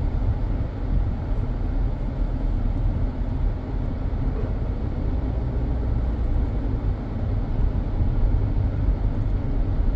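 Car driving slowly: a steady low rumble of engine and road noise, getting a little louder near the end.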